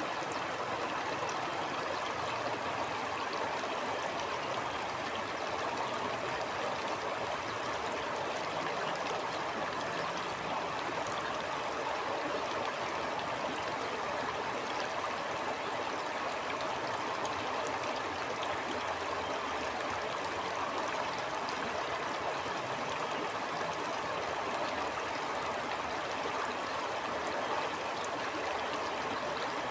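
A stream flowing steadily over stones, a continuous rushing with small trickles and gurgles.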